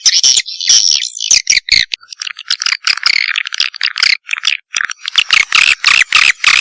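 Edible-nest swiftlet calls from a Thai-style swiftlet lure recording: rapid, sharp chirps and twitters in quick series, with a longer buzzy trill in the middle.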